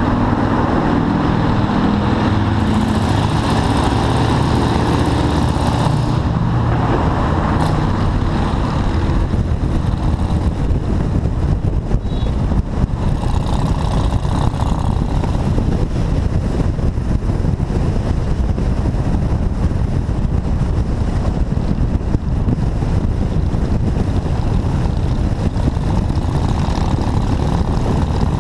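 Motorcycle ride in city traffic: the bike's engine runs under a steady road-and-wind roar, with the engine note stepping in pitch during the first several seconds.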